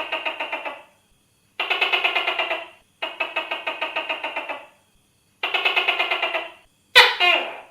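Tokay gecko calling: four rapid pulsing trills of about a second each with short gaps between them, then a shorter, sharper call that falls in pitch near the end.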